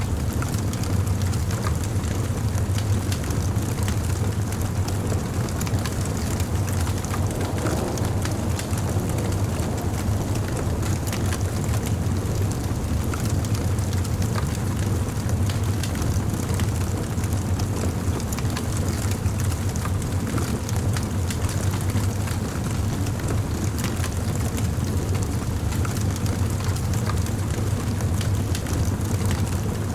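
Wood fire burning, with a steady stream of small crackles and pops over a constant low rumble.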